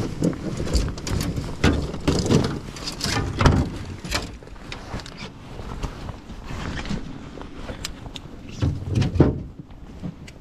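Irregular knocks and clatter of gear and feet against an aluminum fishing boat's hull, over a steady rushing background. They are loudest in the first half and again shortly before the end, then die down.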